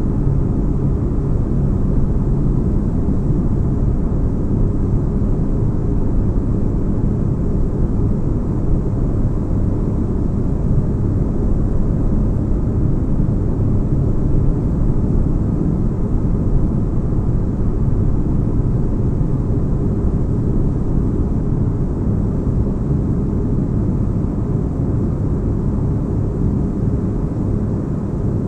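Steady deep rumbling drone of a sci-fi spaceship-interior ambience, a bass-heavy noise with faint steady hum tones, even throughout.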